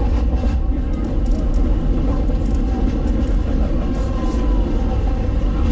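Walt Disney World Railroad train cars rolling along the track: a steady rumble of wheels on rail with scattered light clicks. A faint falling squeal comes about four seconds in.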